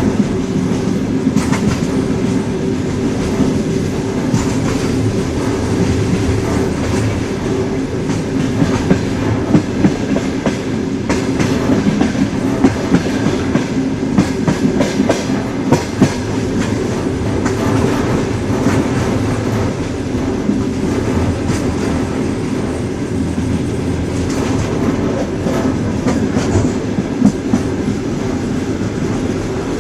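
Train wheels running on the rails: a steady rumble with irregular sharp clacks, most of them from the middle onward.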